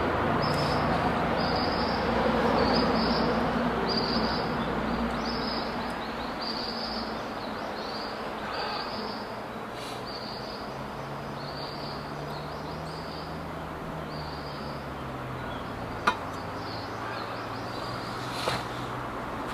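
Outdoor ambience in which a high chirp repeats evenly, about one and a half times a second. The tail of background music fades out over the first few seconds. A faint low hum rises and falls in the middle, and there is a sharp click near the end.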